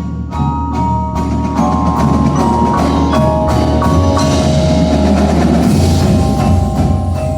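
Winter percussion ensemble playing: mallet keyboards ring out held notes over frequent sharp drum and percussion strikes and a steady low bass.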